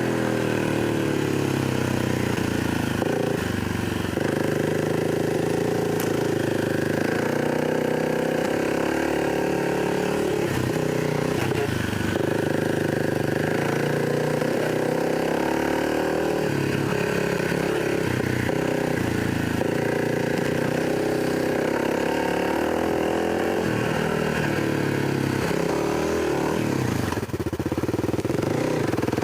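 Kawasaki KLX300 dirt bike's single-cylinder four-stroke engine running on a trail ride, its pitch rising and falling again and again as the throttle opens and closes and gears change.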